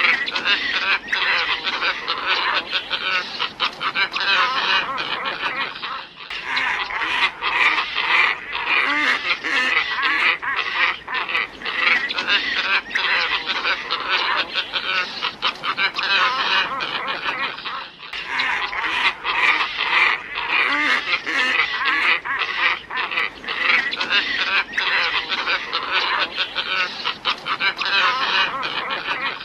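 A flock of glossy ibises calling, with many croaking, honking calls overlapping without pause. The calls break off briefly and abruptly about 6 seconds in and again about 18 seconds in.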